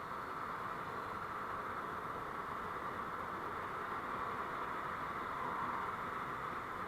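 Steady vehicle and road noise picked up by a dashcam microphone while driving: an even hiss with no distinct events.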